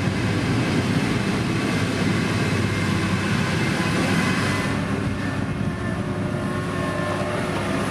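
Motor grader's diesel engine running steadily, a continuous low hum.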